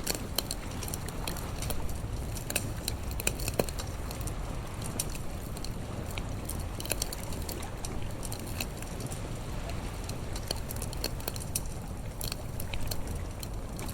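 Wood bonfire crackling, with frequent irregular sharp pops and snaps over a steady low rushing background.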